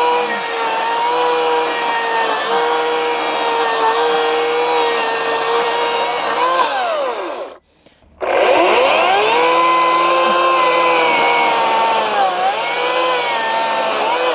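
Ryobi 40V brushless battery chainsaw cutting into a stump, its motor whine sagging in pitch under load and recovering. About seven seconds in the trigger is released and the chain winds down to a stop. Under a second later it spins back up with a rising whine and cuts again, dipping in pitch once more near the end.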